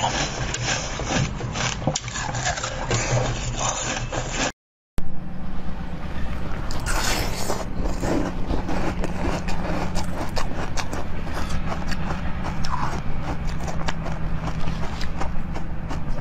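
Close-miked eating sounds: chewing and biting with many small wet clicks and crackles. After a brief cut about four and a half seconds in, they go on as biting and chewing of a pink corn-cob-shaped food.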